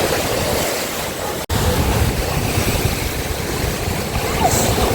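Jet ski under way on open water: a steady rush of engine and water noise. It cuts out for an instant about a second and a half in, then comes back with more low rumble.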